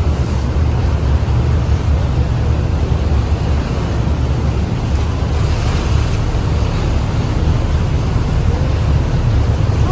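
Wind buffeting the microphone on a sightseeing boat under way, over the boat's steady engine rumble and rushing sea water. Loud and unbroken throughout.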